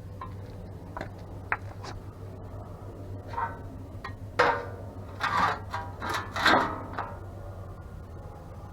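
Metal tools and brake parts clinking and scraping during hand work, with several sharp metallic knocks that ring briefly, most of them between about four and a half and seven seconds in, over a steady low hum.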